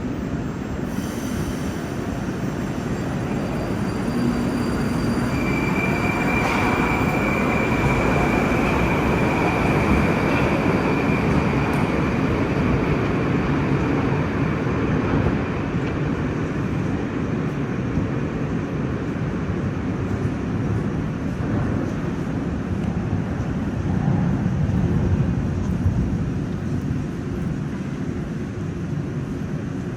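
Moscow Metro train running, a steady loud rumble of wheels on rails. It swells a few seconds in, and a steady high squeal is held for several seconds before fading.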